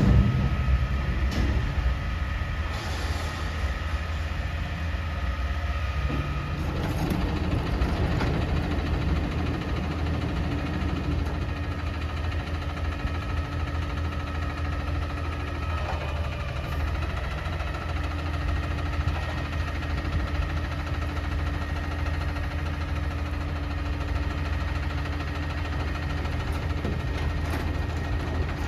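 Engine of a Peterbilt 320 front-loader garbage truck running steadily with a low hum; its note shifts a couple of times, about six and sixteen seconds in.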